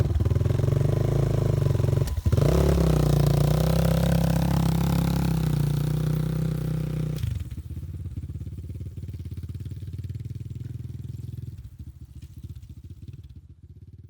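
Motorcycle engine running loud and close, with a brief break about two seconds in and a slight rise in pitch after it. About seven seconds in it turns quieter, with an even pulsing beat that fades away near the end.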